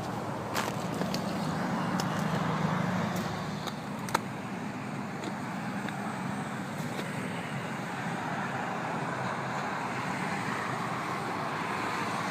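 1996 Chevrolet Astro van's 4.3-litre V6 idling steadily, with a few faint clicks and one sharp click about four seconds in.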